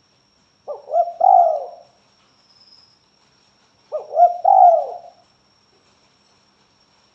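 Spotted dove (tekukur) cooing, two phrases about three seconds apart; each is a couple of short notes followed by a longer coo. It is a lure call used to get other doves to answer.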